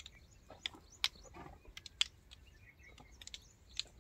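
Small birds chirping faintly in short, scattered calls over an open field.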